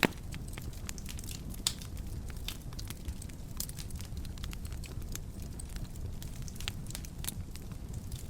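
Wood fire crackling in a fireplace: a low steady rumble of flames with frequent sharp pops and snaps, a loud snap right at the start and another after a second and a half.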